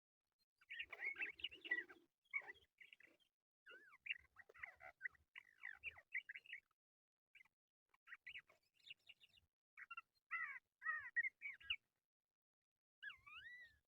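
Lark singing: a run of quick chirps and sliding whistled notes in short phrases with brief pauses, ending with a couple of swooping up-and-down whistles near the end.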